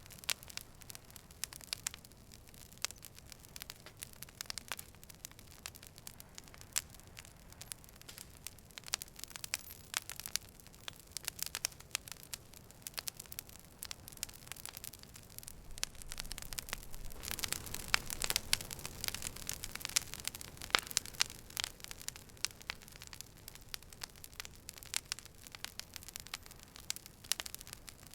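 Campfire burning, with frequent sharp crackles and pops from the wood. Past the middle, a low rushing of the flames swells for a few seconds and the pops grow louder, then it settles back.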